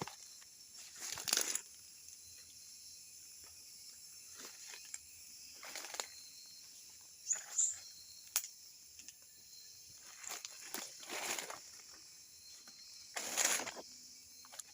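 Irregular rustling and crunching, as of someone pushing on foot through forest undergrowth, in short bursts every few seconds. Under it runs a steady high-pitched background drone.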